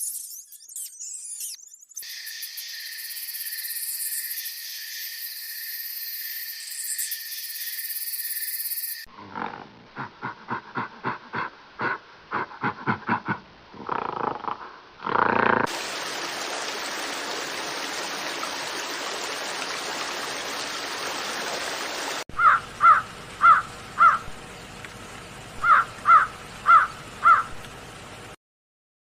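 A string of different animal sounds, cut one after another. First comes a steady high-pitched hiss, then a run of rhythmic grunting pulses, then an even noisy stretch. Near the end there are two runs of four short, sharp calls.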